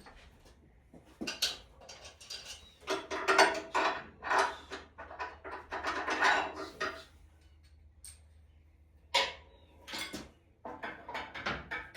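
Metal clanking and rattling in bursts as a V8 engine is shifted and worked down into a truck's engine bay.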